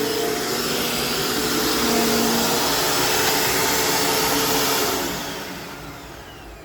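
Dirt Devil Featherlight Jaguar vacuum's 12-amp bypass motor running steadily, then switched off about five seconds in, its whine falling in pitch as the motor spins down.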